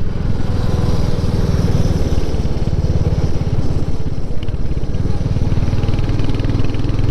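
Motorcycle engine running steadily while under way, with a steady rush of wind and road noise over it.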